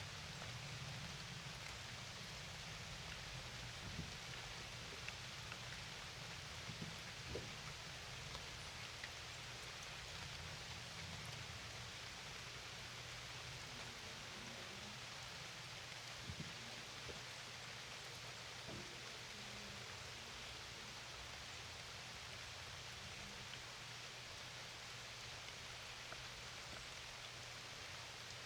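Steady rain falling: an even hiss with scattered faint drop taps, over a steady low hum.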